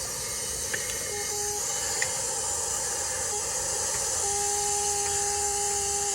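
Refrigerant recovery machine pulling refrigerant out of a residential air conditioner: a steady hiss of gas through the hoses over a machine hum that drops out and comes back. The sound is of mostly vapor, with little liquid refrigerant left in the leaking system.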